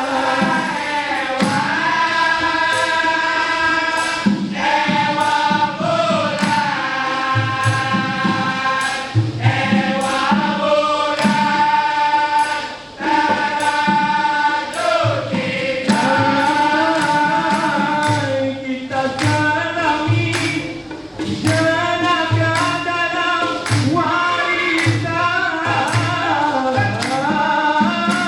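A group of singers performing in close vocal harmony over a steady percussion beat.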